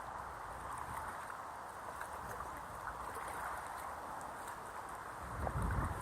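Wind buffeting the microphone, with a stronger gust near the end, over a steady splashing of river water and a few faint light knocks.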